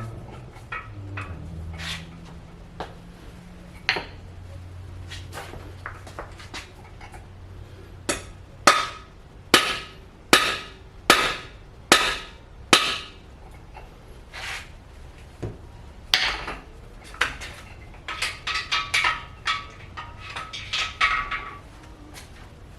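A hammer striking a cam bearing installer's driver, driving a cam bearing into its bore in a Ford 292 Y-block. A few scattered knocks come first, then a run of about seven hard metallic blows about half a second apart, then a flurry of lighter, quicker ringing taps near the end.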